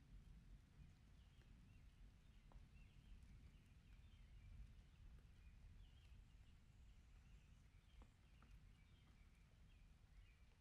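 Near silence: a low rumble with faint, repeated high chirping of small birds, and a few soft ticks.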